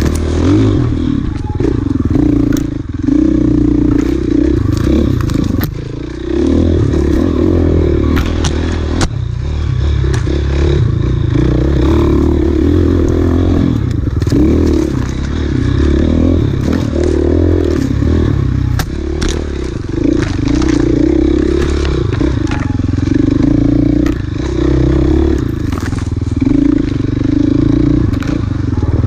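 Off-road dirt bike engine revving up and down under load as it is ridden hard over a rough enduro trail, with clattering and scraping from the bike and terrain and sharp knocks throughout.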